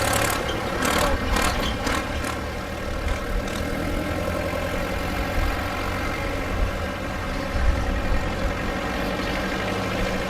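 Tractor engine running steadily at low revs, with a few sharp knocks in the first two seconds.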